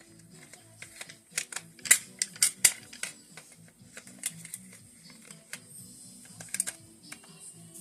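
Irregular sharp clicks and taps of AK-47 rifle parts being handled, loudest and most frequent about two seconds in, with background music underneath.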